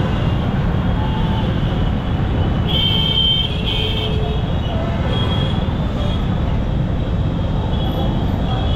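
Steady wind and road noise from a motorcycle riding through traffic, with a vehicle horn honking twice in quick succession about three seconds in.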